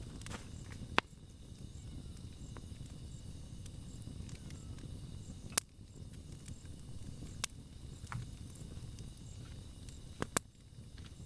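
Wood campfire burning with a steady low rumble, broken by about six sharp crackling pops of the burning wood, the loudest about a second in and two close together near the end.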